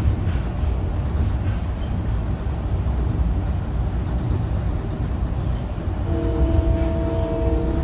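Metro-North commuter train running with a steady low rumble. About six seconds in, the train horn sounds a held chord of several tones for nearly two seconds.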